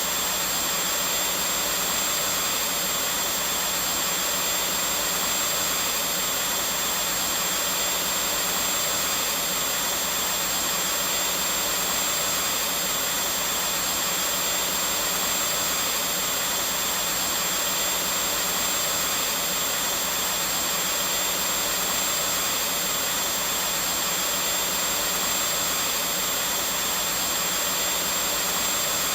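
Vacuum cleaner running steadily, a constant whooshing hiss with a faint steady whine.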